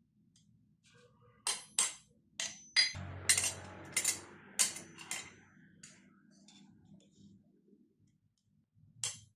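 Steel tongs clinking against pieces of metal stock: a run of about a dozen sharp, ringing metallic clinks at irregular spacing, mostly in the first half.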